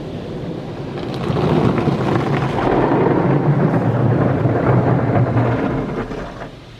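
High-pressure water jets of a Laserwash touchless car wash gantry blasting over the car, a loud drumming hiss and rumble on the body. It builds about a second in and falls away near the end as the spray passes.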